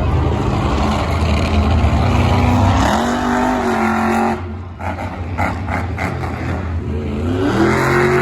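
Monster truck engine running hard. It revs up about three seconds in, drops off the throttle with a few sharp cracks, then revs up again near the end.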